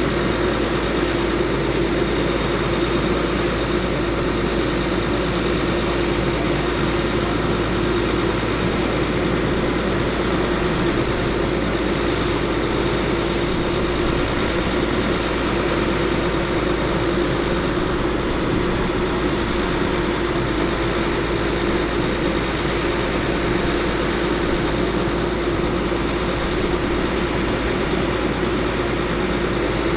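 Caterpillar C7 diesel engine of a Ford F750 bucket truck running steadily, with one constant whining tone over a low rumble.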